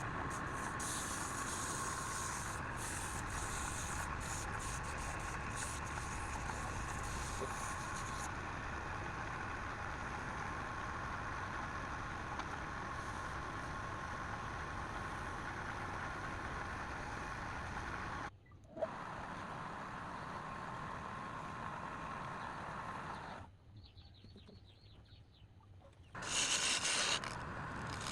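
Wood lathe running with a steady motor hum, with light scratchy ticks in the first few seconds. The sound cuts out briefly about two-thirds of the way in, then drops much quieter for a few seconds near the end before coming back louder.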